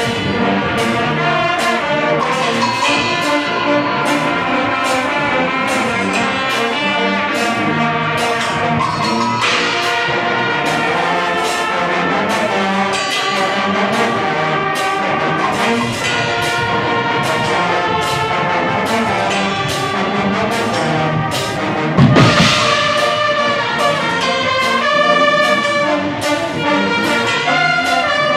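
Guggenmusik band playing: loud, blaring brass (trumpets and trombones) over a steady drum beat, with one louder hit about three-quarters of the way through.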